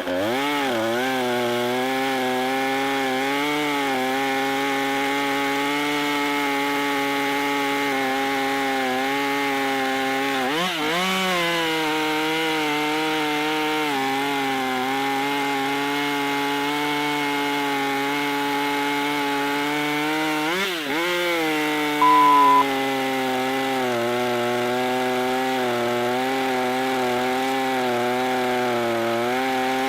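Husqvarna pro arborist gas chainsaw running hard while cutting through a log. Its engine pitch drops sharply and climbs back about every ten seconds. A short, loud beep sounds about two-thirds of the way through.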